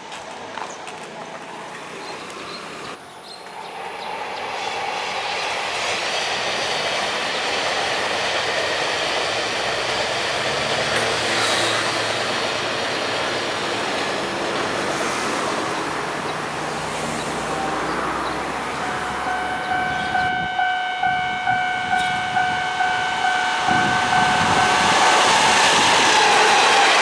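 Taiwan Railways Chu-Kuang express train, hauled by an orange diesel-electric locomotive, running by with a steady rumble. Near the end its horn sounds one long steady note for about five seconds, and as the train draws near its wheels clack rhythmically over the rail joints, about two to three a second.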